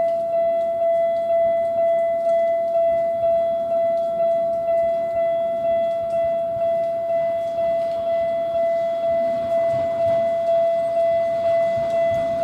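Japanese level-crossing warning bell ringing: a steady electronic tone struck about twice a second, over and over. A train's rumble builds under it near the end.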